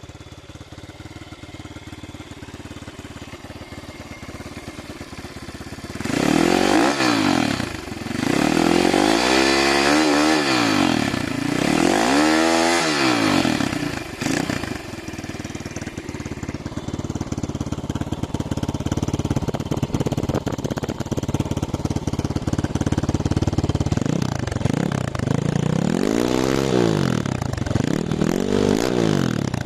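Apollo RXF 150 pit bike's 150 cc engine idling, then revved up and let fall back three times in a row. It settles to a steady run for several seconds, then is revved twice more near the end.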